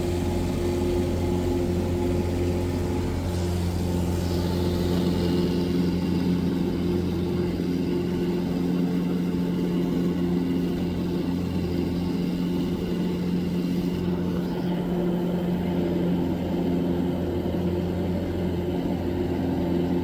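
Cessna 177 Cardinal's piston engine and propeller running steadily, a constant droning hum with a slight shift in tone about three seconds in.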